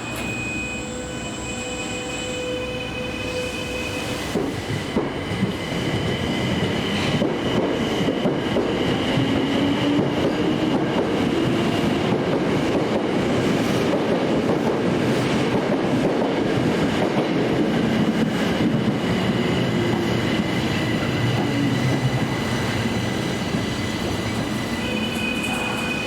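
Subway train running: its rumble builds to a peak about halfway through and eases off toward the end, with a faint motor tone that rises and then falls in pitch.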